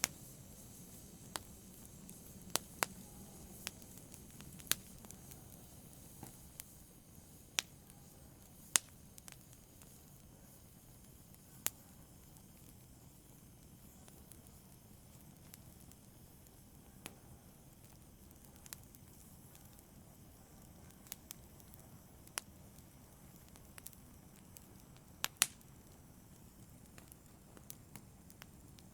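Wood fire in a fireplace crackling: sharp, irregular pops every second or two over a low steady hiss, with a couple of louder snaps.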